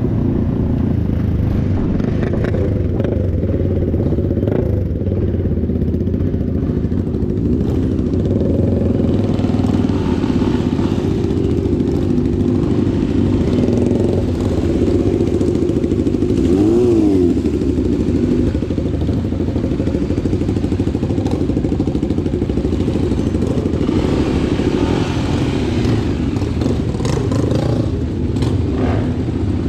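Motorcycle engine running steadily, with one brief rise and fall in pitch a little past halfway.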